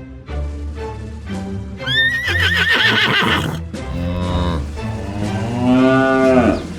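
Background music with a horse whinny about two seconds in, a high wavering call. Near the end comes a longer, lower animal call that rises and falls in pitch.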